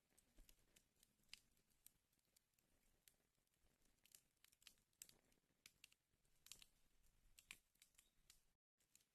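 Wood fire crackling in a fireplace, faint, with irregular pops and snaps of burning logs over a soft hiss; the sound cuts out completely for a moment near the end.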